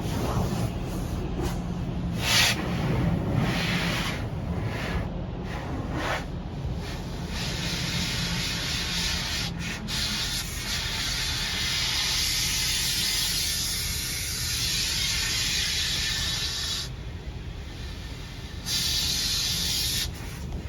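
Automatic car wash at work: water jets spraying and brushes rubbing over the car. It comes in surges for the first several seconds, then as a steadier spray, with a louder burst near the end over a steady low rumble.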